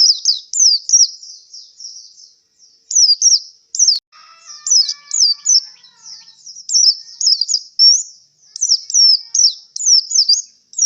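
Male white-eye (pleci) singing: short phrases of quick, high sweeping notes, repeated with brief pauses. A single sharp click sounds about four seconds in.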